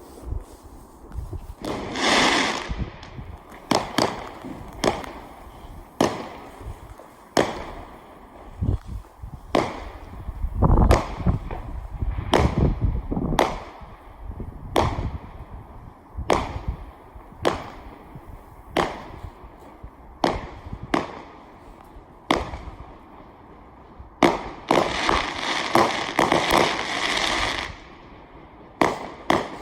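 Fireworks going off: a string of sharp bangs, roughly one a second, some trailing off in an echo. About two seconds in and again near the end come longer runs of dense crackling.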